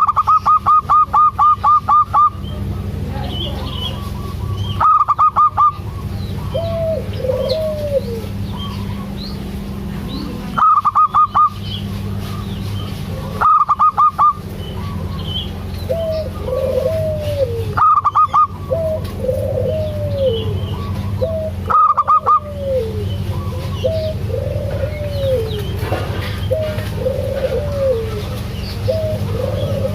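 Zebra doves (perkutut) calling: repeated phrases of rising-and-falling coos, broken every few seconds by loud bursts of rapid, evenly spaced higher notes, about six bursts in all.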